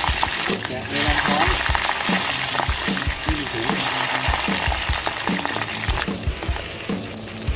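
Giant river prawns deep-frying in hot oil: a loud, steady sizzle that eases off about six seconds in.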